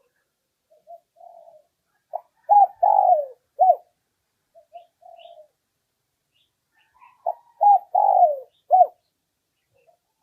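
Spotted dove (Streptopelia chinensis) cooing its territorial song twice: each phrase opens with a few soft low notes, then a run of three or four loud, falling coos. A decoy bird's call of the kind used to lure rival males in to fight.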